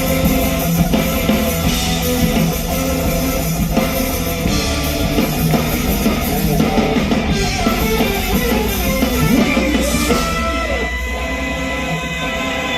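Live rock band playing an instrumental passage: guitar leading over a drum kit.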